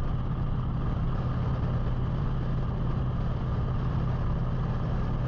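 2007 Victory Vegas's V-twin engine running steadily with wind noise, the pitch holding constant throughout.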